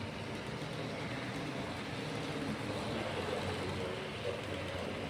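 HO-scale LS Models TEE RAe electric trainset running along the layout track: a steady rumble of its wheels and motor.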